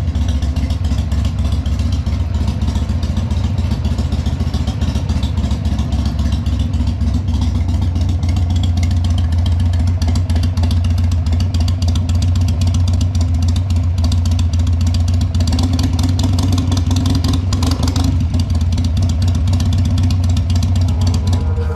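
Harley-Davidson Sportster 883's air-cooled V-twin engine idling steadily, a dense, even low rumble of rapid firing pulses.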